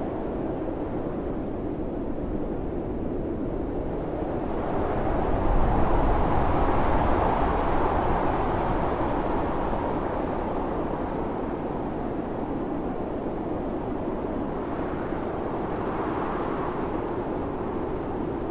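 Blizzard wind blowing steadily, with a strong gust swelling up about five seconds in, rising in pitch, and dying back down a few seconds later; a smaller gust comes near the end.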